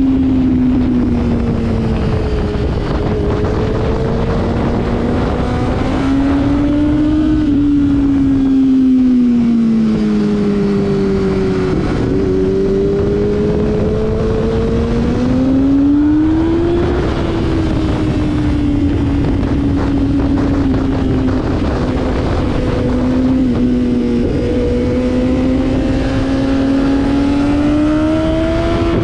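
Motorcycle engine at speed on a racetrack, its pitch climbing and falling again and again as the bike accelerates and slows, with sudden drops in pitch at gear changes. A steady rush of wind runs underneath.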